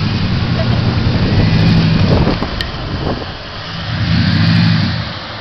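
Dodge Mega Cab pickup's engine revving in surges as the truck is driven, easing off about three seconds in and picking up again near four seconds, with a sharp knock about halfway through.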